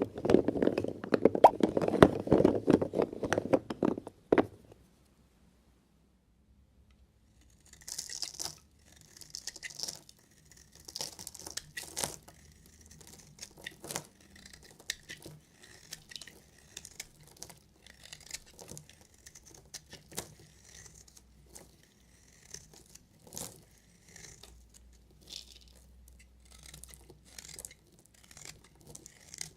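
A loud crackling rustle for about four seconds, then after a short pause a long run of crisp, separate scraping strokes as a knife cuts through dry soap.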